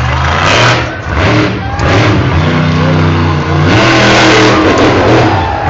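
Monster truck engine revving hard in repeated surges, its pitch climbing and dropping.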